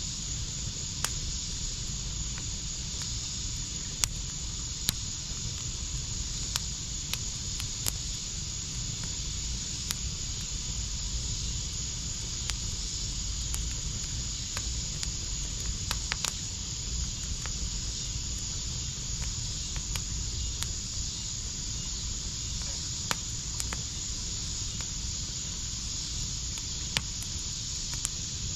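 Backyard fire pit wood fire crackling, with sharp pops at irregular moments over a steady high hiss.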